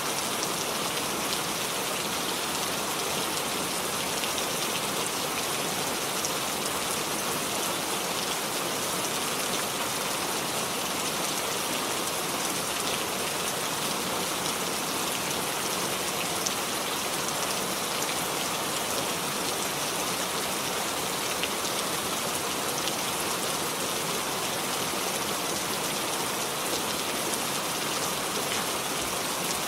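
Steady rainfall: an even, unbroken hiss of many drops pattering, with no change in strength.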